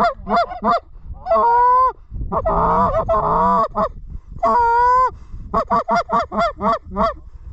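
Goose honking and clucking, loud and close: quick clucks at the start, several long drawn-out honks in the middle, then a fast run of clucks near the end.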